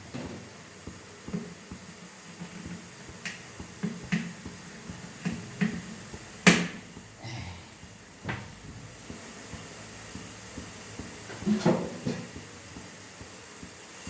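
Scattered light knocks and taps of kitchen utensils against a metal kadai while sugar syrup is being made. The sharpest knock comes about six and a half seconds in, over a faint steady background.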